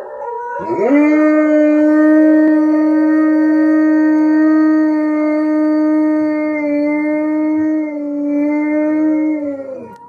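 A dog howling: one long howl that rises at the start, holds a steady pitch for about nine seconds, then drops and fades near the end.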